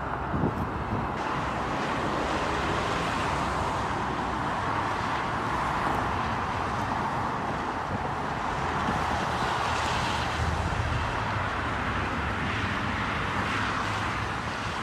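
Steady road noise of a vehicle driving: a constant rush of tyres and wind with a low rumble underneath.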